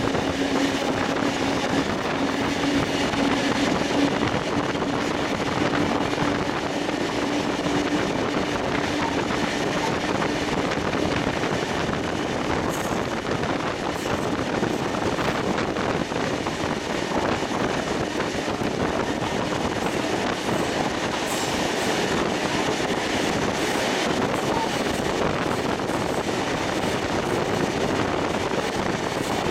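Carriage wheels running on the rails and wind rushing past, heard from the window of a moving steam-hauled train. A steady low hum fades out about ten seconds in, and a few sharp clicks come later on.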